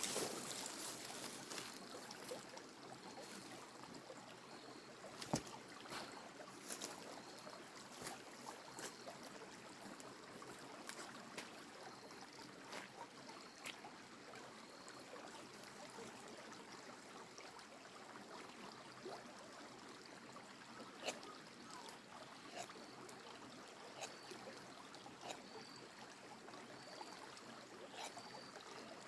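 Creek water running steadily, with scattered sharp clicks and knocks and a short high chirp repeating in runs about once a second.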